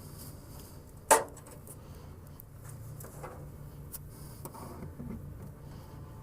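Honeybees buzzing steadily around an open hive, with one sharp knock of wooden hive parts about a second in and a few lighter knocks later.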